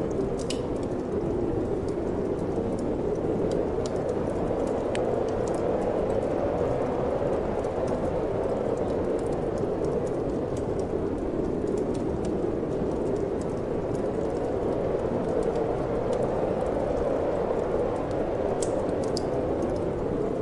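Steady wind blowing and gently swelling, with scattered small pops and crackles of a wood fire in a fireplace.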